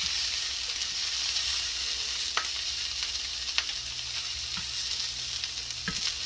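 Shrimp sizzling in hot oil in a frying pan, a steady hiss, with a few light clicks or taps against the pan.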